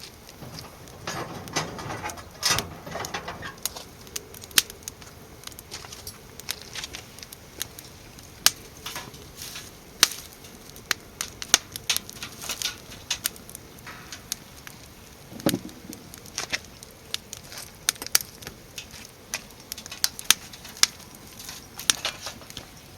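Firewood burning in a fire pit, crackling with frequent sharp irregular pops. Handling rustle about a second in and a dull thump about halfway through.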